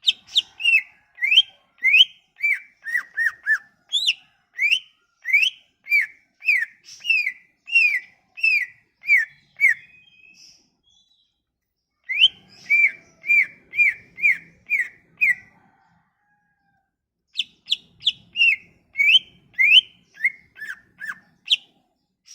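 Cucak ijo (green leafbird) singing: a loud song of clear, slurred whistled notes, about two a second, in three phrases with short pauses between them. It is played as lure song to get a silent cucak ijo singing.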